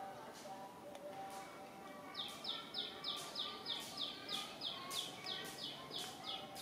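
A bird calling: a steady run of short, high chirps, each falling slightly in pitch, about three a second, starting about two seconds in.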